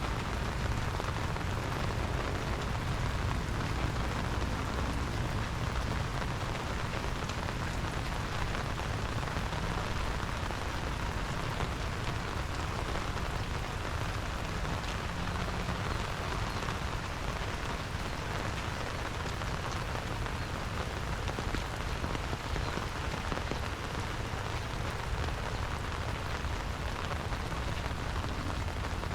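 Steady rain falling, an even hiss with no let-up, over a low rumble.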